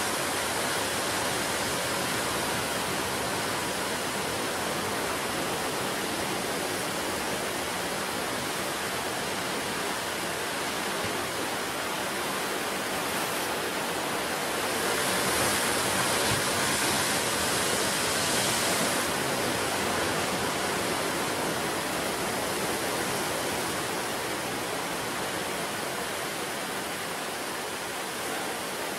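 Ocean surf washing in as a steady rushing noise, swelling louder for a few seconds about halfway through as a bigger wave comes in.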